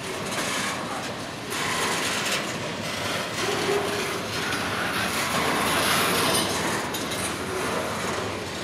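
A train rolling past on the rails, its wheels clicking over the rail joints, with a brief faint wheel squeal about three and a half seconds in.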